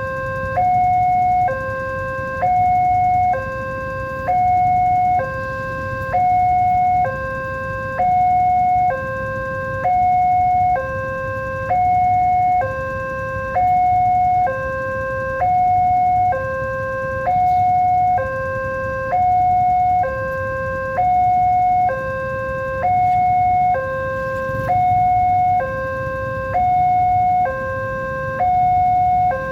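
Electronic two-tone warning alarm of a railway level crossing, alternating a low and a higher tone about once a second in a steady, unbroken cycle: the signal that a train is approaching and the barrier is closed. A steady low rumble runs underneath.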